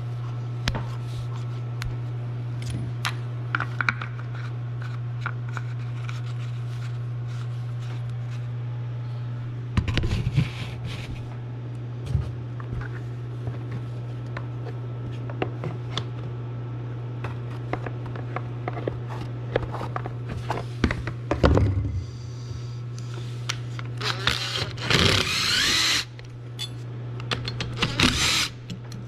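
Workshop sounds of hands-on work on a golf cart engine: scattered clicks and knocks of tools and metal parts over a steady low hum, with a few short louder noisy bursts, the longest near the end.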